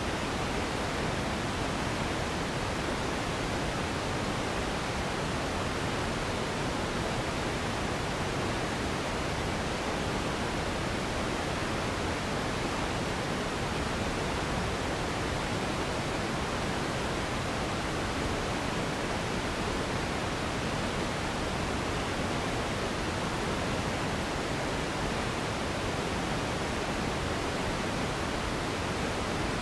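Steady pink noise: an even, unbroken hiss that stays the same throughout, used as a sleep and relaxation sound.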